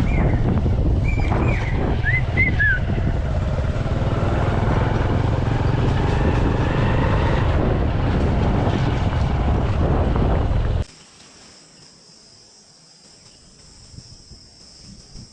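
Strong wind buffeting the microphone in a loud, low rumble, with a few bird chirps in the first few seconds. About eleven seconds in it cuts off suddenly to a quiet night scene of insects trilling steadily at a high pitch.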